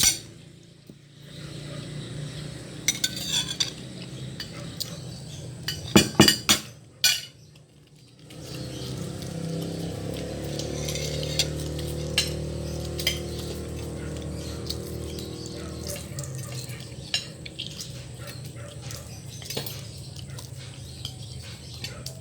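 Cutlery clinking and scraping against a plate while eating, in scattered sharp clicks with a loud cluster about six seconds in, over a steady low hum.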